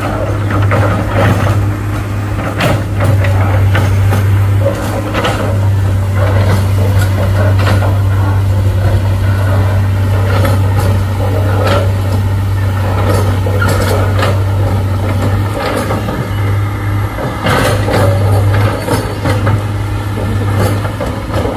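A heavy vehicle's engine running steadily, with frequent sharp knocks and clanks throughout.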